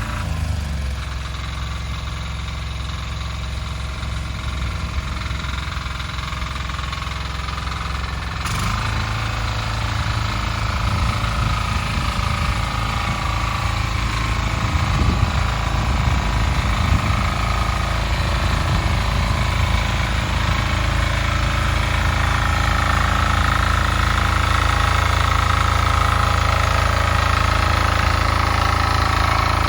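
Diesel engine of a walk-behind tractor running steadily. About eight seconds in the sound changes abruptly, and it then grows gradually louder.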